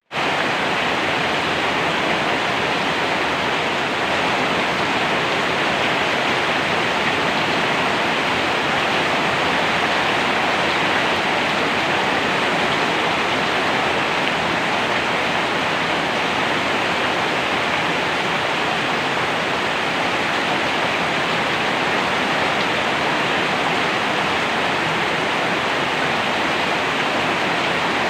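Steady rain: an even, unbroken hiss of rainfall with no single drops standing out.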